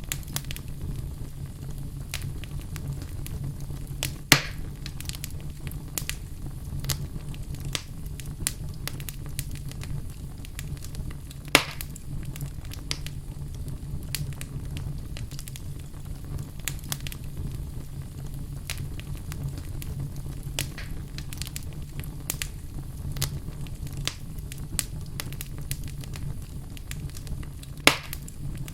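Wood fire burning in a fireplace, crackling with frequent small snaps over a steady low rumble, and three louder pops: one about four seconds in, one near the middle and one near the end.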